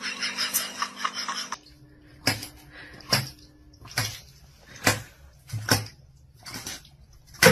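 A rapid clattering that stops abruptly about a second and a half in, followed by a regular run of short, sharp knocks or scrapes, about one a second, seven in all.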